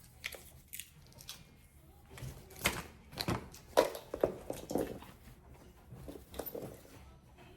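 Shiba Inu puppy chewing and crunching its food, a series of irregular crunches, loudest in the middle.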